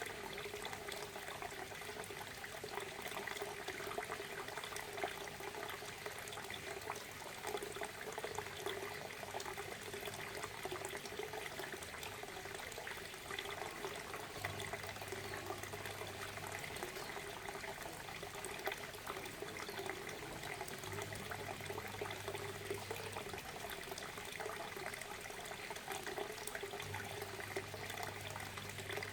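Waterfall: water falling and splashing steadily, an even rushing sound with many small splashes and no change.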